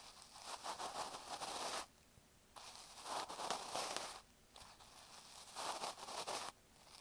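Bonten (fluffy ear-pick puff) brushed and rubbed against an earphone microphone, making close, scratchy rustling. It comes in three long strokes of about a second and a half each, with short pauses between.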